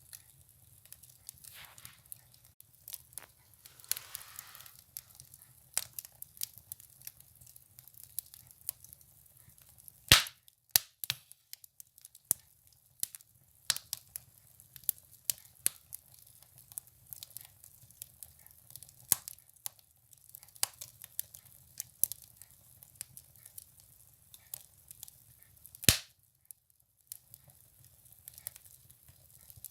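Firewood burning in a stove, crackling with irregular sharp pops and snaps. Two snaps stand out as much louder, about ten seconds in and again near the end.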